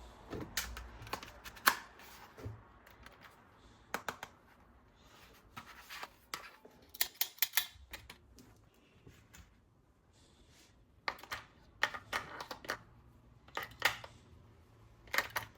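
Irregular clicks and clacks of plastic toy parts and packaging being handled, coming in quick clusters of sharp ticks with short pauses between them.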